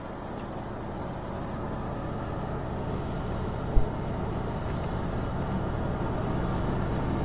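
Vehicle being driven, heard from inside: steady road and engine noise, slowly growing louder, with a single knock about four seconds in.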